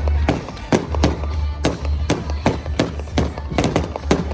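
Fireworks display: a rapid run of sharp bangs and crackles, several a second, over music with a heavy pulsing bass.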